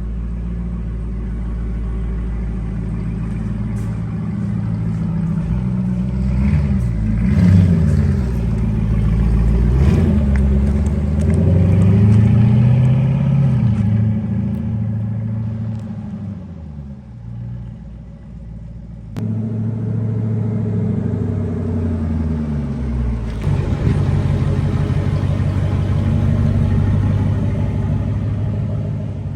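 Dodge Durango's 5.7-litre Hemi V8 through a straight-pipe exhaust with no mufflers, revving up and down several times in the first half. It drops quieter and lower for a few seconds past the middle, then comes back suddenly to a steady, loud run.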